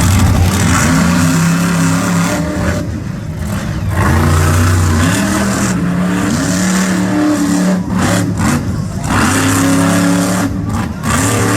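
Two monster truck engines revving hard during a side-by-side race, their pitch climbing and dropping again and again.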